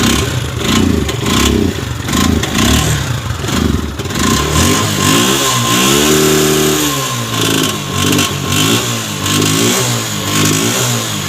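Motorcycle engine freshly started in the morning and being blipped on the throttle as it warms up, its pitch rising and falling in a string of short revs. In the middle it is held higher for about a second.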